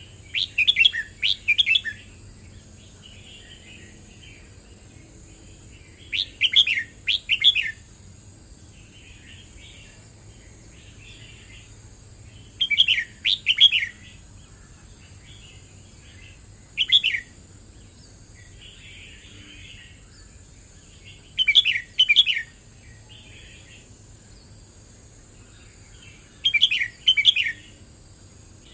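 Red-whiskered bulbul singing: six short, loud phrases of quick rising and falling notes, each a second or two long, repeated about every five seconds, with faint softer calls in between.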